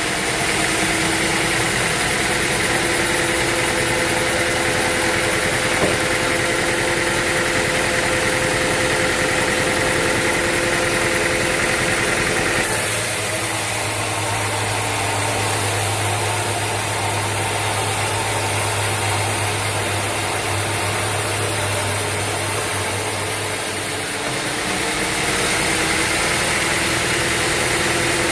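Sawmill machinery running steadily: a motor hum with a higher whine over it. About halfway through the sound changes abruptly to a deeper hum, and near the end it slides back up to the first pitch.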